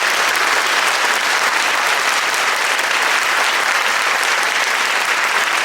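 Steady applause from a crowd of many people clapping, cutting off abruptly near the end.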